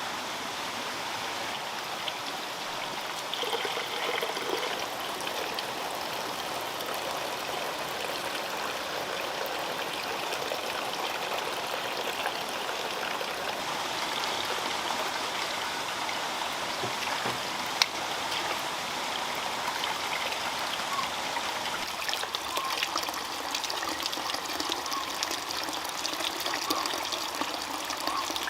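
Water running steadily, with a single sharp click about eighteen seconds in.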